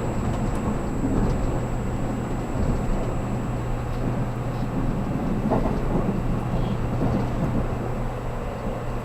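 Interior of a JR Kyushu 783 series electric limited express car: steady running noise of the train with a low, even hum.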